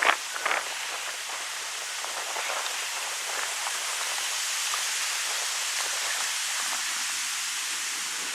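Wind blowing through birch trees, the leaves rustling in a steady high hiss that swells slightly toward the middle. Two brief sharp sounds stand out right at the start.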